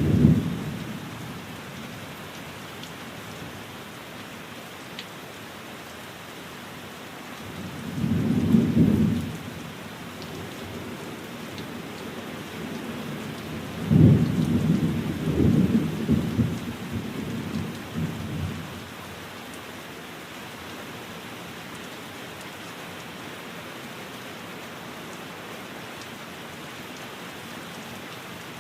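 Steady rain falling, with rolls of thunder: one fading at the start, another about eight seconds in, and a longer crackling roll from about fourteen to eighteen seconds in.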